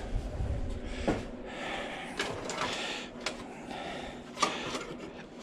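Scattered light clicks, knocks and rattles of scrap from the AC condenser being handled and sorted by hand, with a brief low rumble about the first second.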